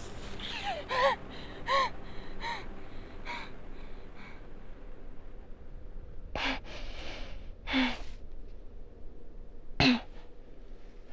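A young woman's voice just after a scream: several short cries fading away over the first few seconds, then three sharp gasping breaths a second or two apart.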